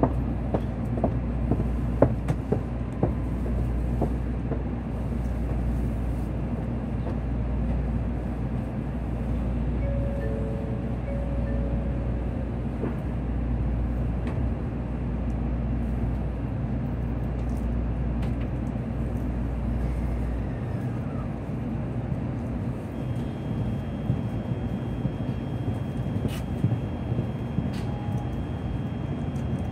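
Cabin noise inside a Shinkansen train pulling out of a station: a steady hum with a few clicks in the first seconds. About two-thirds through, a deep low hum stops and a thin high whine comes in as the train starts to move.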